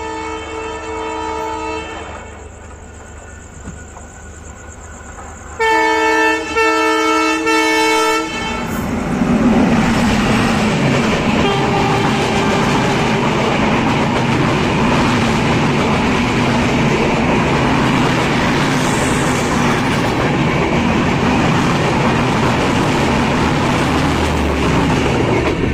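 The Chitra Express intercity train runs through the station at high speed. Its locomotive horn sounds at the start, then sounds again louder in three short blasts about six to eight seconds in as it draws level. After that the coaches rush past close by, with loud continuous wheel and rail noise and a clickety-clack.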